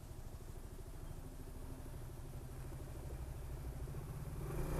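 Honda SH 300i scooter's single-cylinder engine idling steadily, swelling louder near the end.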